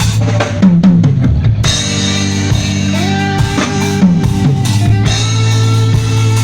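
Live band jamming: drum kit with kick drum and cymbals over a bass guitar line and guitar, played loud through a PA.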